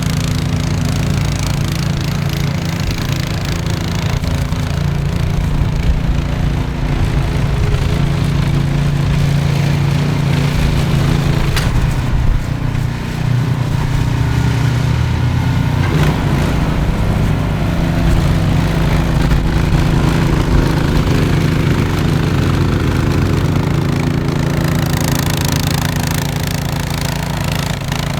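An engine running steadily at constant speed, loud and close, with an added hiss over the top near the end.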